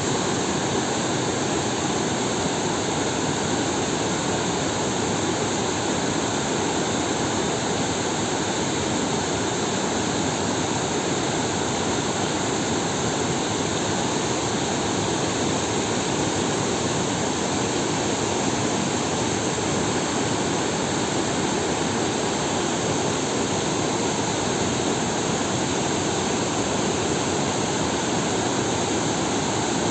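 Fast-flowing floodwater rushing, a loud, steady, unbroken noise.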